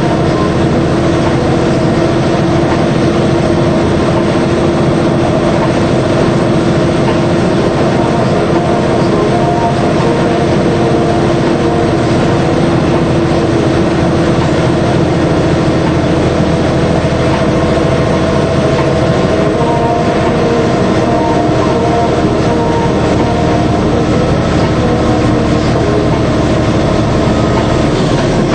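DAF 75 lorry under way: a steady diesel engine drone with road and wheel noise, holding an even pitch throughout.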